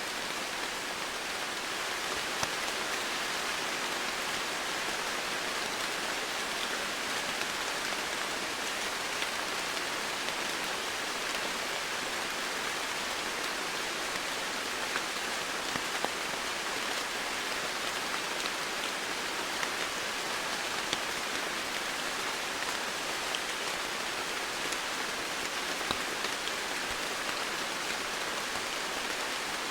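Steady, heavy rain falling, a constant hiss with scattered individual drop ticks.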